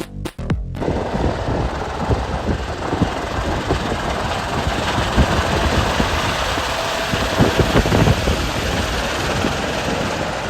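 Electronic music cuts off about a second in, giving way to a steady, loud rumble of a running vehicle with wind noise on the microphone and irregular low knocks.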